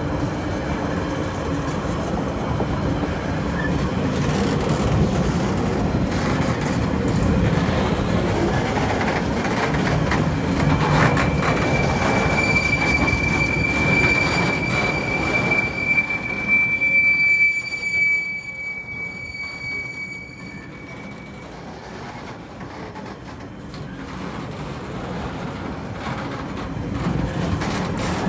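TasRail freight train's wagons rolling past over the crossing, wheels clattering on the rails, with a steady high-pitched wheel squeal through the middle. The rolling noise then drops away sharply about two-thirds of the way through and builds up partly again near the end.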